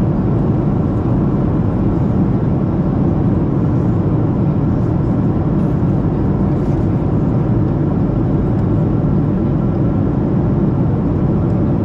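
Steady cabin noise inside a Boeing 737-700 in descent: the even, low rush of airflow and jet engines heard from a window seat, unchanging throughout.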